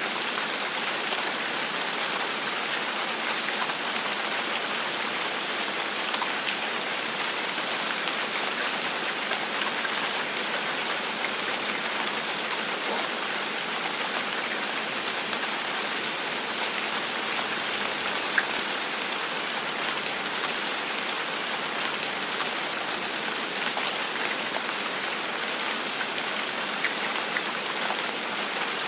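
Steady, gentle rain falling on a surface, an even hiss dotted with many small drop ticks.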